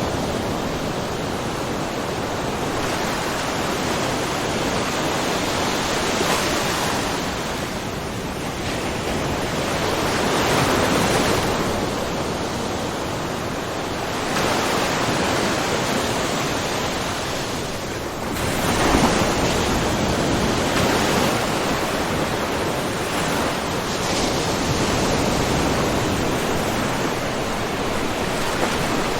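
Small ocean waves splashing and washing in a rocky cove, a steady wash of surf that swells and eases every few seconds, with a stronger splash about two-thirds of the way through.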